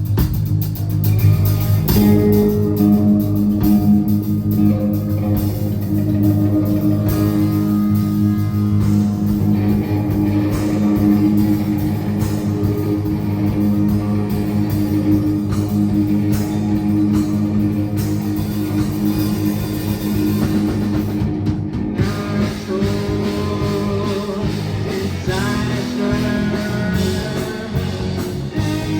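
Live rock band playing, with guitar and drum kit, and a voice singing.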